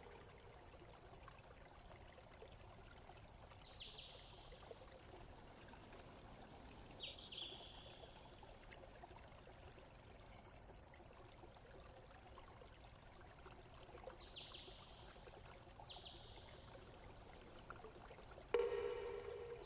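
Faint running water trickling steadily, with short high chirps every few seconds and one louder pitched note near the end.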